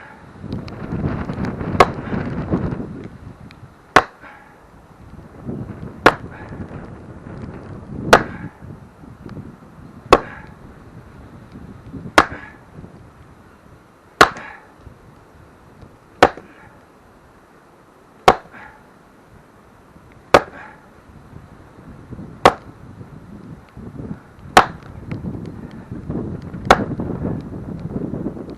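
Heavy, evenly paced blows driving a wooden fence post into the ground, one sharp strike about every two seconds, with rustling between some of the strikes.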